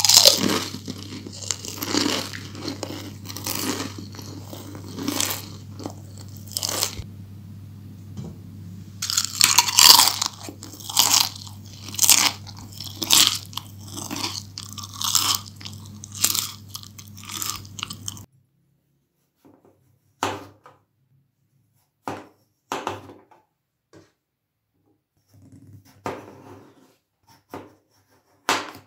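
Crisp, crunchy chewing and biting of fried potato cubes coated in cheese sauce, in irregular crunches over a low steady hum. About two-thirds through, this gives way to a knife slicing peeled raw potato on a plastic cutting board, in separate chops a second or so apart.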